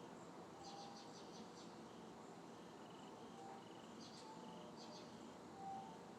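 Faint night insects chirping in quick pulsed trains of several clicks, repeating every second or so, over a low hiss, with a few faint brief steady tones lower in pitch.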